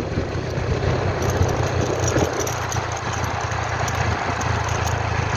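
Vehicle engine running steadily with road noise, heard while riding: a constant low drone with a light hiss over it.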